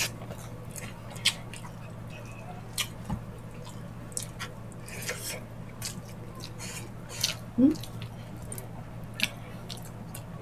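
Close-up wet eating sounds: chewing of sticky ox-foot stew, with scattered lip smacks and finger-sucking clicks, the loudest smack a little past halfway, over a steady low hum.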